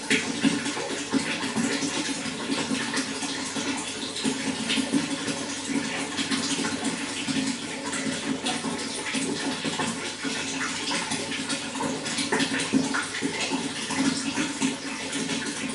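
Running water flowing steadily, a continuous splashing rush full of small droplet and ripple sounds.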